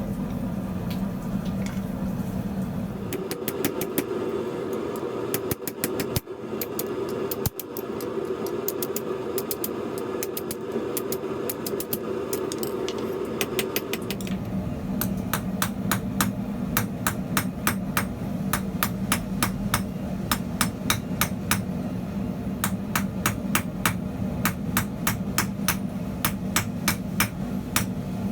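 Blacksmith's hammer striking hot steel on an anvil while forging the end of a rod, in short ringing blows. The blows come irregularly at first, then settle into a fast regular rhythm of about three a second over a steady hum in the shop.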